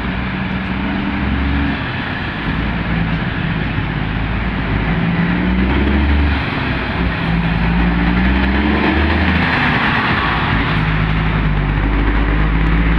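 Road traffic at close range: heavy vehicle engines running, their pitch rising and falling as they pull away through a traffic jam, over steady road noise.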